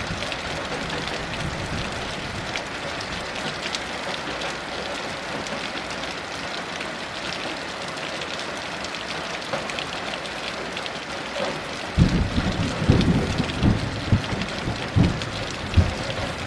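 Heavy rain falling in a steady hiss. About three quarters of the way in, thunder rolls in as low rumbles with several louder peaks.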